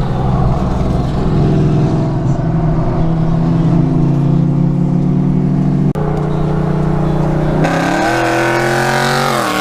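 Car engine pulling hard at wide-open throttle in a roll race. Its pitch holds, then climbs over the last couple of seconds and drops sharply near the end as it shifts up a gear.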